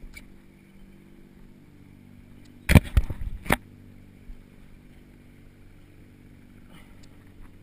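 Boat motor idling steadily, with a short cluster of loud knocks and rattles about three seconds in from the fish being handled on the boat.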